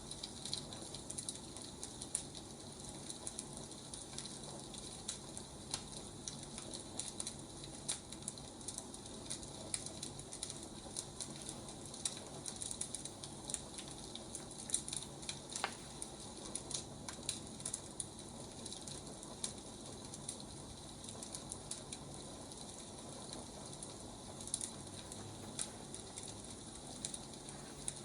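Burning firewood crackling: a steady hiss with frequent small, irregular pops and snaps.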